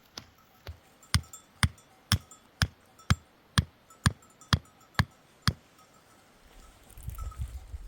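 A series of sharp knocks, about two a second, some ten strong strokes with fainter ones between, then a low rumbling noise starting near the end.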